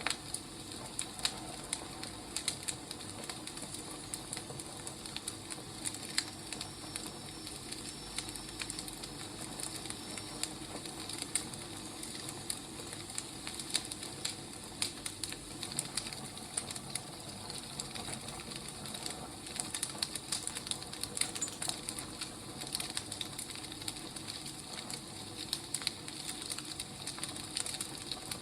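Wood fire crackling steadily: a soft hiss under frequent irregular sharp pops and snaps.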